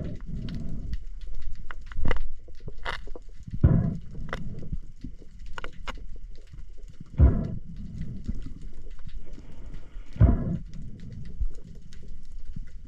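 A spearfisher breathing hard through a snorkel, one heavy breath about every three seconds with softer hissing between, and scattered small clicks and knocks.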